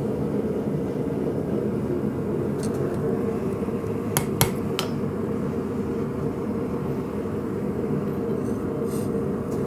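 A steady low roar runs throughout, with a few light hammer taps on the blade about four to five seconds in. This is the final edge straightening and centering of the forged blade on the anvil.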